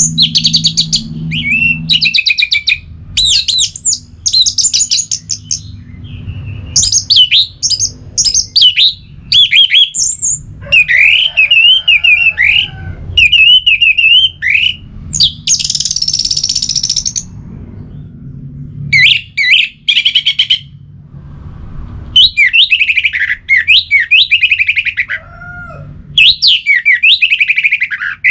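Orange-headed thrush singing: a loud, varied run of whistled and trilled phrases separated by short pauses, with one harsh, raspy phrase about halfway through.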